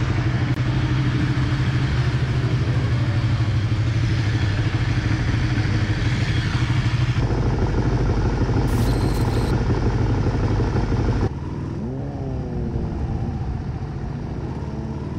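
Motorcycle engines running steadily in the pit garage. After a cut the sound is quieter, and an engine revs up and back down once.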